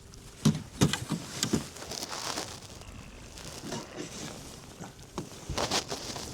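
Several sharp knocks and thumps in a boat: four in quick succession in the first two seconds, a few fainter ones, and another cluster near the end.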